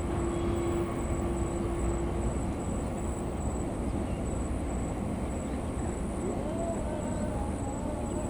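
Passing train: a steady rumble of wheels on the rails, with a horn note dying away in the first couple of seconds.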